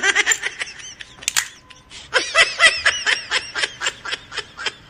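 High-pitched laughter in quick repeated 'ha-ha' pulses, in a short bout at the start and a longer run from about two seconds in, with a sharp click in the pause between them.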